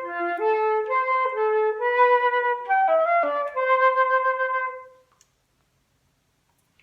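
Recorder playing a melody in single clear notes: a run of short notes ending on a longer held note, then stopping about five seconds in.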